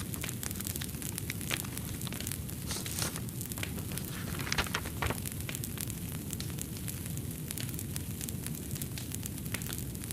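Fireplace fire crackling, with many small sharp pops over a low steady rumble. A denser, louder patch of crackle comes near the middle.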